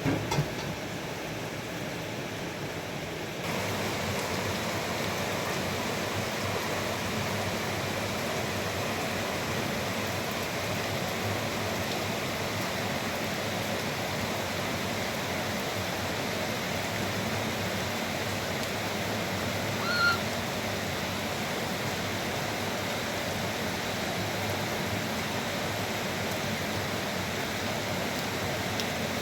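Steady rushing of running water, stepping up in level about three and a half seconds in. A single brief high chirp sounds about twenty seconds in.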